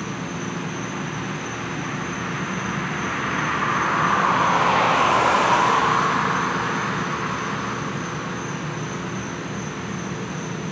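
A vehicle passes by, its noise swelling to its loudest about five seconds in and then fading, over a steady low engine hum.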